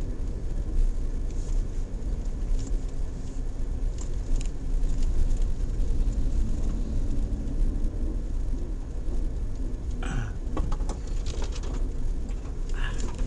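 Suzuki Jimny JB64 driving slowly on a rough forest road: a steady low rumble of the small turbo three-cylinder engine and the tyres. About ten seconds in there is a cluster of short sharp clicks and scrapes.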